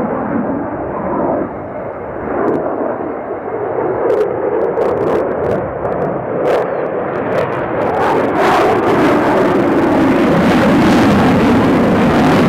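Fighter jet engines running loud overhead, a dense rumble that wavers in pitch, with sharp crackling pops from about four seconds in. It grows louder toward the end.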